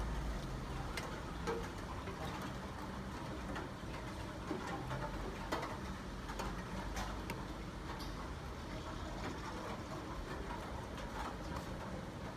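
Rain falling steadily, with irregular sharp ticks of drops striking a hard surface.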